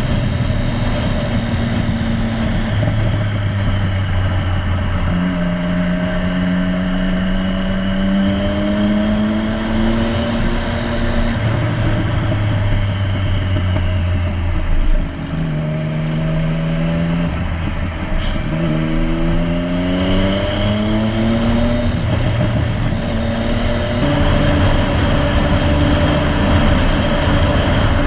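Motorcycle engine pulling through the gears: its pitch climbs, drops at each shift, and climbs again several times, over a steady rushing noise. About halfway through there is a brief sharp knock and dip.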